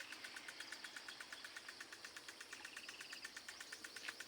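Faint, steady insect trill pulsing about ten times a second, with a few faint bird chirps.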